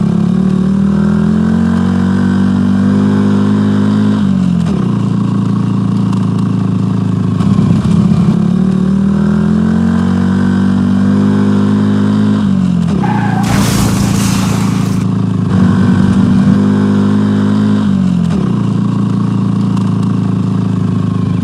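A vehicle engine revving: its pitch climbs slowly, then falls away, three times over, with a short hissing burst of noise a little past the middle.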